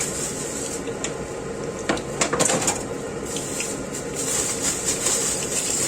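Hot cooking oil sizzling in a frying pan, a steady hiss with a few sharp crackles about two seconds in, over the steady run of a kitchen extractor fan.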